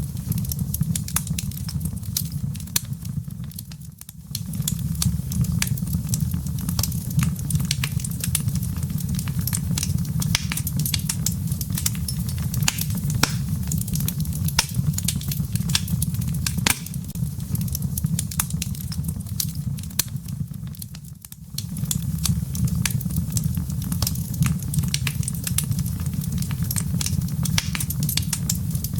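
Wood fire in a fireplace crackling: many quick sharp pops and snaps over a steady low rumble of the flames. The low rumble drops away briefly twice.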